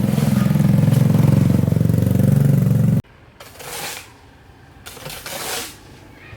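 A small engine running steadily and loudly, with a low, even rumble. It cuts off abruptly about three seconds in, and quieter scattered sounds follow.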